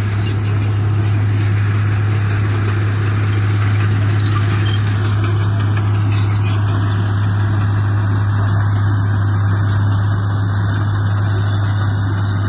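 Heavy diesel engine of earthmoving machinery running steadily, with a constant low hum and no change in speed.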